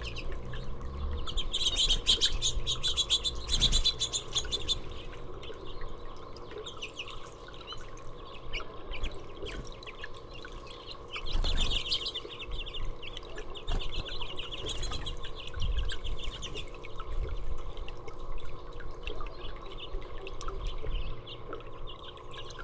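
Small songbirds chirping in quick runs of rapid high notes, with the busiest runs about two seconds in and again around the middle.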